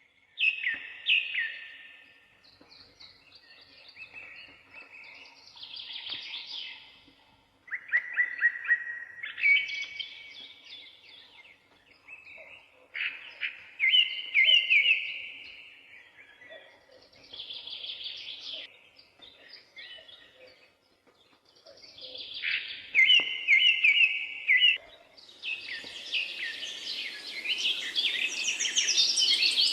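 Songbirds singing: a loud phrase of quick chirping notes recurs every few seconds, with fainter songs between. About 25 seconds in, busier calling and a steady hiss come in.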